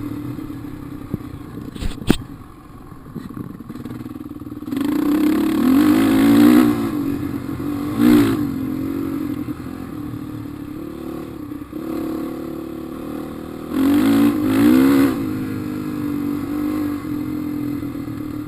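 450cc four-stroke dirt bike engine running under load on a trail ride, opening up in rising-and-falling revs three times (about five seconds in, eight seconds in, and fourteen seconds in) between steadier running, with a sharp click about two seconds in.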